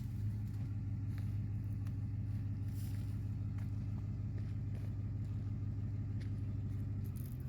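Ford F-150 pickup's engine idling steadily, a low even hum, with a few faint clicks over it.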